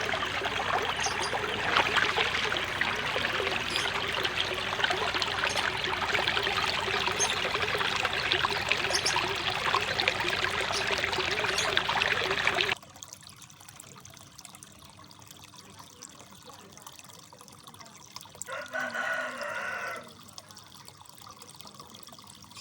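Water trickling and splashing steadily into a koi pond. It cuts off suddenly about 13 seconds in. Near the end a rooster crows once.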